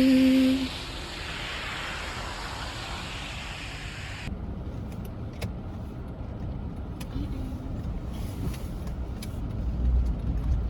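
The background song ends in the first second, followed by a steady hiss. About four seconds in, it cuts to a vehicle's cabin on the road: a steady low rumble with a few light clicks, growing slightly louder near the end.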